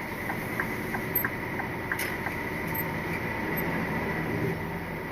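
Steady engine and road noise inside the cab of a Scania R450 lorry under way, its 13-litre six-cylinder diesel running. A run of light ticks, about three a second, stops a little over two seconds in.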